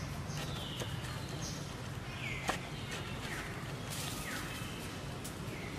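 Birds calling: short chirps that slide down in pitch, repeated roughly once a second, with one sharp click about two and a half seconds in.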